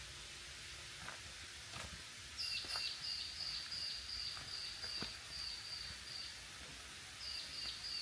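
A bird calling a long run of short, high notes evenly repeated about three times a second. It starts a couple of seconds in, pauses briefly, then starts again near the end, over a steady hiss of rainforest ambience with a few faint taps.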